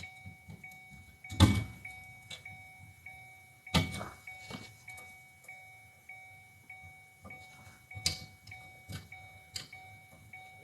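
Scattered knocks and clicks of hands working at a car seat's wiring connectors, the two loudest about a second and a half and four seconds in. Under them a faint electronic chime pulses steadily.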